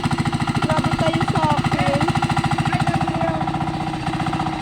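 Tractor engine running steadily under way, a rapid, even chugging of about a dozen beats a second.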